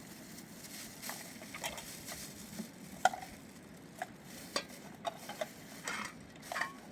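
Cooking sounds: scattered light clicks and knocks of a utensil in a pan over a faint steady sizzle, one sharper knock about three seconds in.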